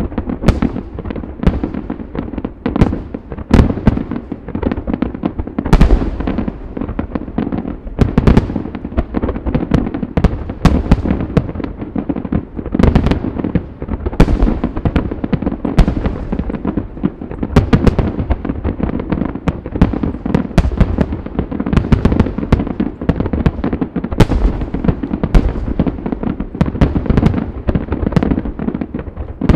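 Aerial fireworks display: a dense, continuous barrage of shell bursts, several loud booms standing out over a steady mass of crackling and lower rumbling bangs.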